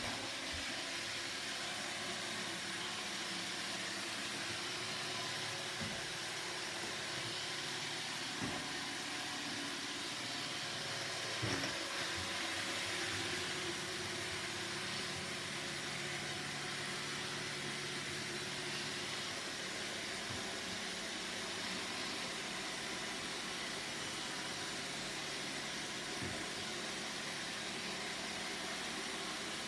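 Roomba robot vacuum running steadily, its motor and brushes making a continuous whirring hiss, with a few short light knocks scattered through.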